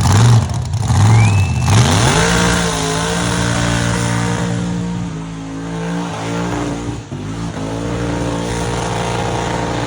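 Car engine in a burnout: lumpy low revs for the first two seconds, then revved up hard and held high and steady, with the noise of spinning tyres underneath.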